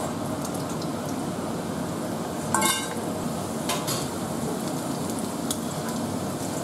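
Masala-coated okra frying in hot oil, a steady sizzle, with a metal utensil clinking against the pan about two and a half seconds in.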